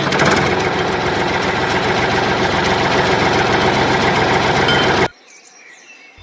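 A motor or engine running steadily with a fast, even rattle for about five seconds, then cutting off suddenly. Faint bird chirps follow.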